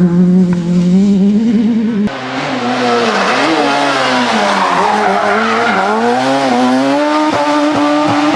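S1600 rally car's high-revving 1.6-litre four-cylinder engine at full throttle, revs climbing, then after an abrupt cut about two seconds in another run with revs rising and dropping through gear changes and lifts, over a hiss of tyre noise.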